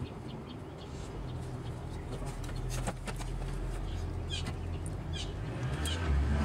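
Birds chirping: short high, falling chirps repeating about once a second through the second half, over a low hum that swells about a second in and is the loudest sound.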